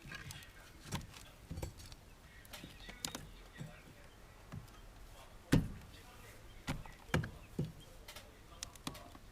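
Scattered knocks and thumps from tearing apart an old roof structure by hand, the loudest about five and a half seconds in, with a few more close together around seven seconds.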